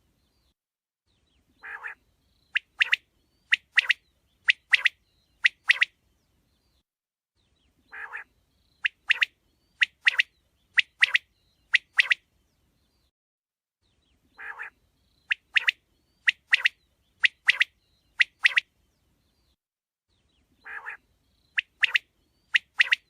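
Quail calling: each phrase opens with a low, rough note and is followed by a run of sharp, clipped high-pitched calls, mostly in quick pairs. The phrase repeats about every six seconds, four times.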